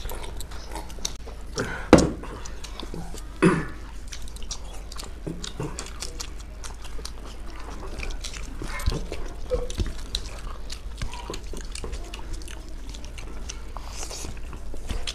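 Close-miked eating: two people chewing and biting, with wet mouth sounds and many small clicks. Two louder sudden sounds come about two seconds and three and a half seconds in.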